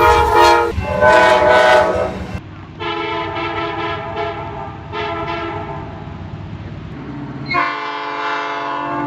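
Diesel locomotive air horns sounding a string of blasts, each a chord of several tones. There are two blasts at first, then two long ones, and a loud final blast near the end that cuts off abruptly.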